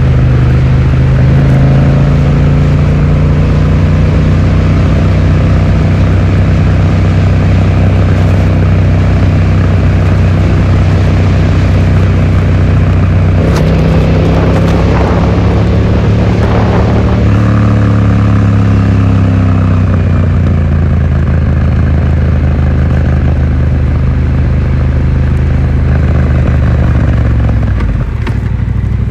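Yamaha XSR700's parallel-twin engine running through an Akrapovic exhaust while under way, its note steady, then falling and rising in pitch about halfway through, over wind and road noise. Picked up by a phone in the rider's pocket.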